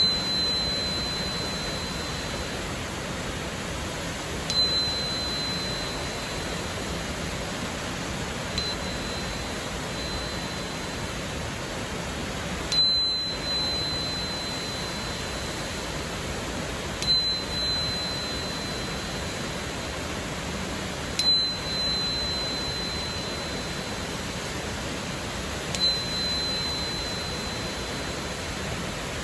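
4096 Hz crystal tuner struck about six times, roughly every four seconds. Each strike gives one clear, high, pure tone that rings for a few seconds and fades, over the steady rush of a waterfall.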